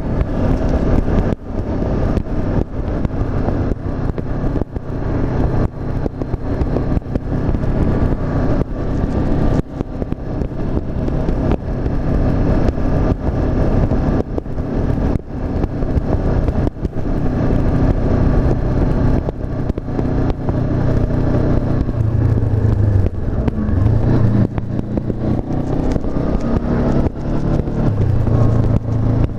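Honda CB500F's 471 cc parallel-twin engine running under way, heard from the bike, with wind buffeting the microphone. The engine note shifts down and up a few times near the end.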